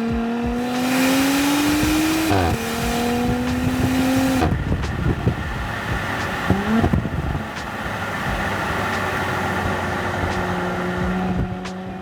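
2018 Audi SQ5's turbocharged 3.0-litre V6 exhaust, resonator deleted, under hard acceleration: the note climbs, drops at an upshift about two seconds in, climbs again, then falls away as the throttle is lifted after about four and a half seconds. A short blip follows, then a steadier, lower note.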